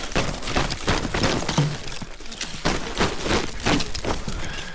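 Ice crackling and breaking as a frozen crust and icicles are peeled and knocked off a canvas tent, a dense run of irregular sharp cracks and snaps.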